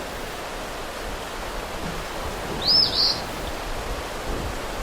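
A bird gives one short, high, two-part chirp about halfway through, over a steady outdoor background hiss.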